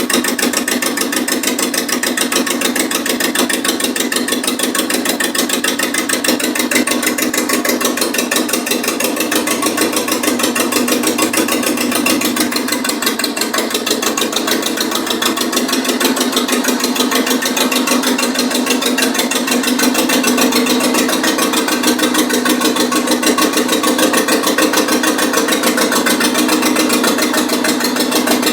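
Renault Estafette van's 1289 cc Cléon four-cylinder petrol engine running at a steady idle, with an even, fast firing beat.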